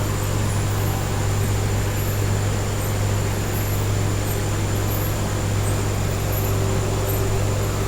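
Steady low hum with an even hiss over it, unchanging throughout: continuous room background noise.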